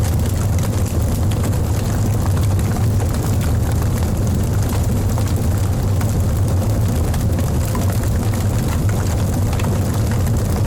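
Logs burning in a fireplace: a steady low rumble of flames under many small, quick crackles.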